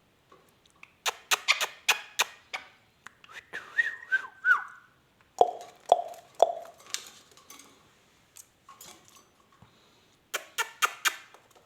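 Ringneck parrot making non-word sounds: quick runs of sharp clicks, a short warbling whistle about four seconds in, then three short downward calls around six seconds, with more clicking near the end.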